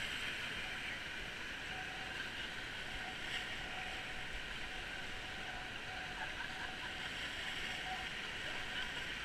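Rushing river water, a steady hiss of flowing current around a raft.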